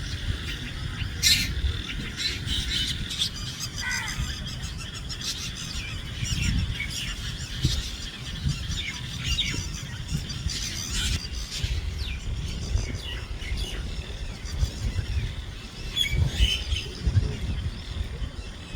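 Birds calling: many short chirps and squawks, scattered throughout, over a low rumble.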